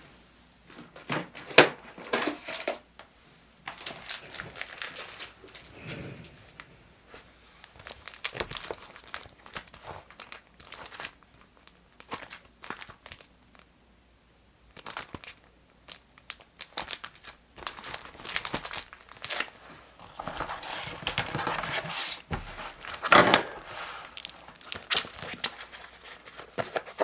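Close-up crinkling and rustling of paper and stationery being handled, with short tearing or peeling sounds and small taps, in irregular clusters. There is a quiet spell about halfway through, and the handling is busiest near the end.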